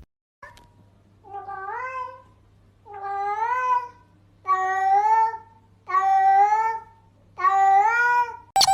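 A cat meowing five times in a row, each long call rising in pitch and then holding, about a second and a half apart. A sharp click comes at the very end.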